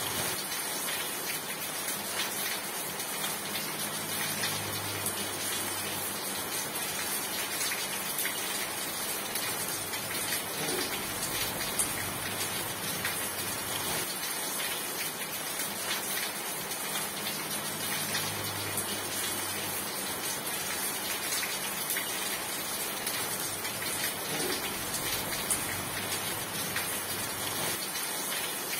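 Rain falling steadily: an even hiss with scattered faint drop ticks.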